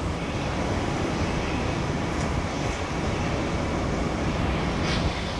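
Long Island Rail Road M3 electric train rolling slowly into the platform, a steady rumble of wheels and running gear, with a faint brief click about five seconds in.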